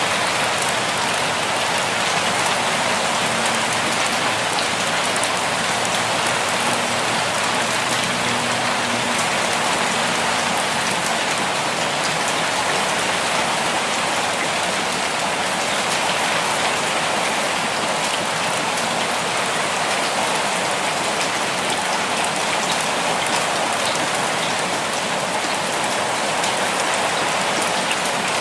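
Steady rainfall, an even hiss with scattered individual drops pattering on a surface.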